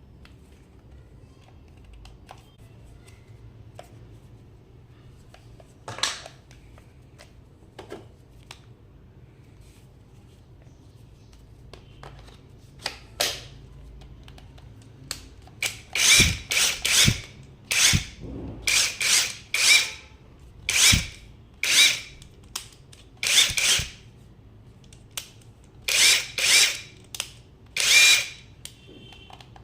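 INGCO 20 V cordless impact wrench triggered in short bursts of about half a second: one burst each near 6 s and 13 s, then about a dozen in quick succession with brief gaps near the end.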